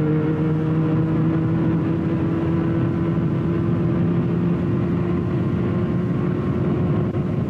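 Motorcycle engine running at a steady road speed, its pitch rising slowly as it picks up a little speed, with road and wind noise on the bike-mounted microphone.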